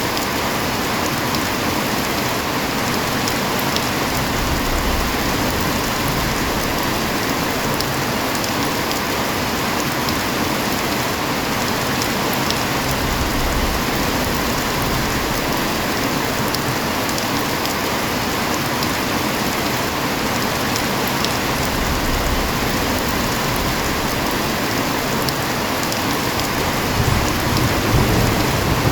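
Heavy rain falling steadily, with low thunder rumbles now and then that swell near the end.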